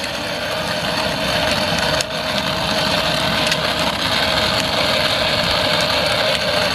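Small motor of a child's pink ride-on motorcycle running steadily with a constant whine, its wheels rolling over the ground, with a couple of brief clicks.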